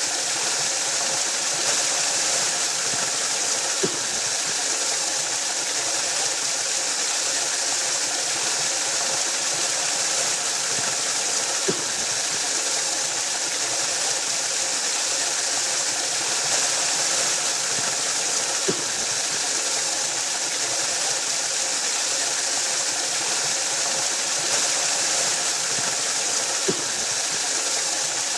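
Waterfall rushing steadily, a constant hiss-like roar of falling water, with a faint sharp click about every seven to eight seconds.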